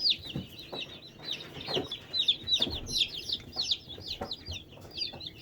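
A brood of Cornish Cross broiler chicks peeping together: many short, high peeps, each sliding downward, overlapping in a continuous chorus.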